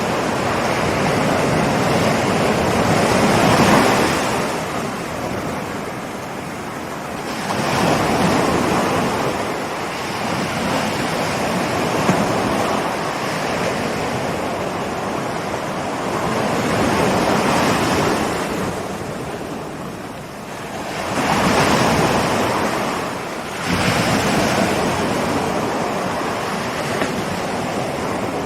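Ocean surf: waves rolling in and breaking in a continuous wash that swells and falls back every several seconds.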